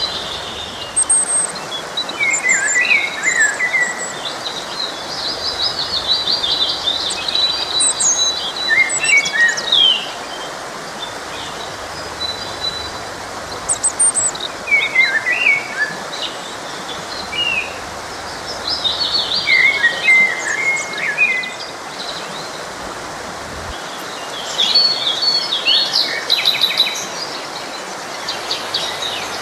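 Songbirds singing in short twittering phrases every few seconds over the steady rush of a forest stream.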